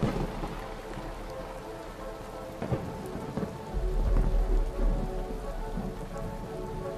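Deep, thunder-like rumbling booms over a steady rain-like hiss, with a sustained droning chord of tones beneath. The loudest rumble swells about four seconds in and then fades.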